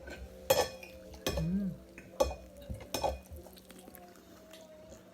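Cutlery clinking against a plate, about four sharp clinks roughly a second apart, the loudest about half a second in.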